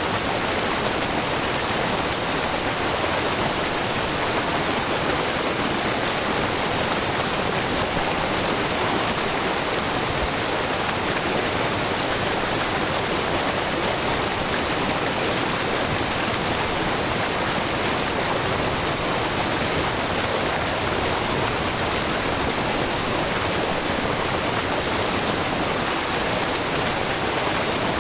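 Shiraito Falls, a low, wide curtain of many thin streams of spring water spilling over a rock face, falling with a steady, even rush.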